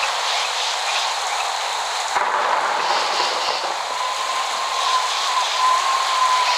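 Steady rain hiss. A faint, thin whistling tone comes in about four seconds in, holds, then dips slightly as it ends.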